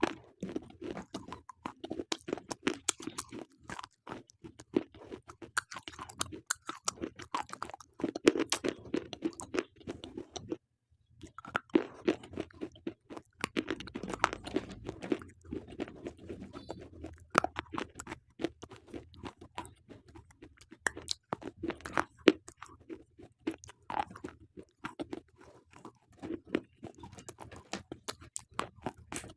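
Slate pencils being bitten and chewed close to the microphone: a dense run of sharp crunches and grinding, with one short pause about ten seconds in.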